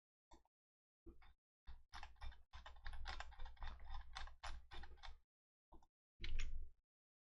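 Computer keyboard typing in quick runs of key clicks, densest from about two to five seconds in, with a short final run near the end.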